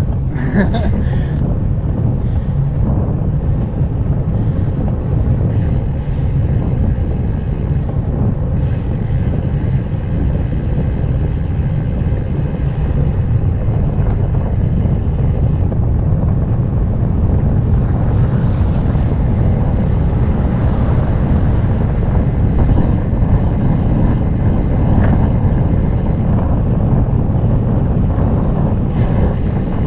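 Wind buffeting the action camera's microphone on a bicycle moving at speed: a loud, steady low rumble.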